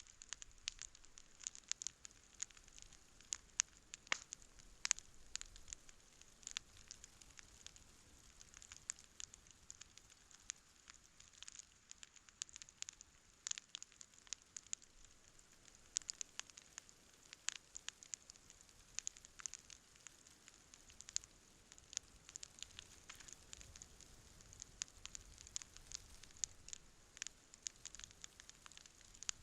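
Wood campfire burning, with steady irregular crackling and popping over a faint hiss.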